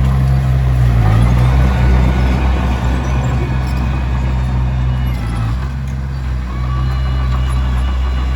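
Komatsu D21P bulldozer's diesel engine running steadily. Its pitch and level dip briefly a little past the middle, then pick back up.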